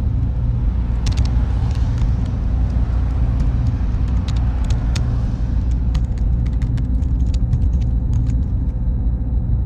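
Computer server room ambience: a steady low hum of cooling fans and equipment, with scattered light clicks coming thicker in the second half and a faint high whine entering near the end.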